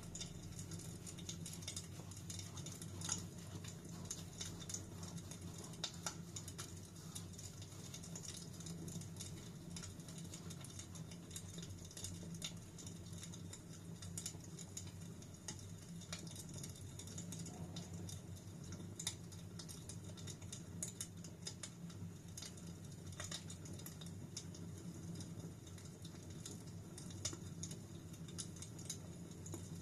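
Wood fire crackling steadily in a fireplace: frequent small sharp pops and snaps over a low, even rumble of burning.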